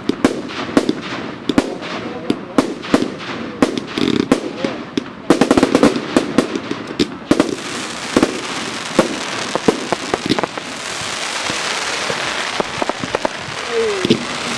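Fireworks going off in rapid bangs and crackles, which give way about ten seconds in to a steady hiss.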